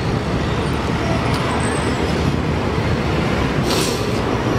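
Passenger train running slowly across a steel truss bridge: a steady rumble of wheels and running gear, with a brief high hiss about four seconds in.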